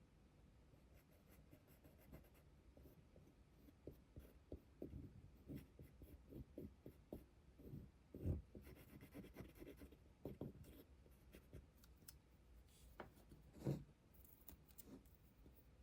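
Faint handling noises at a workbench: light scratching, rubbing and small clicks, with two sharper knocks about eight and fourteen seconds in.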